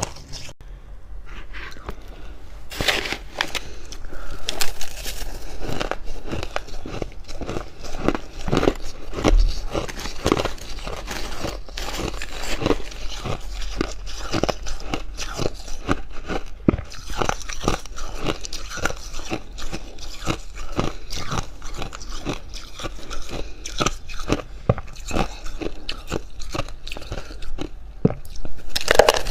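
Close-miked bites and chewing of fluffy freezer frost, a rapid run of dry, irregular crunches.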